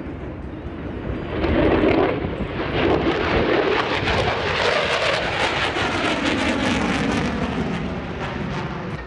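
An airplane flying past at an air show, a loud, dense engine noise that swells about a second and a half in, its pitch sliding downward as it goes by.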